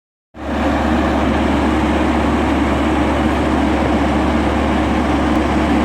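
A heavy engine running steadily at an even idle, a constant low drone with no change in speed.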